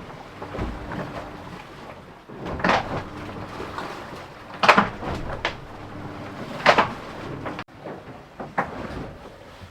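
A series of sharp knocks and bangs aboard an IMOCA racing yacht, about five of them a second or two apart, over a faint steady hum of onboard machinery.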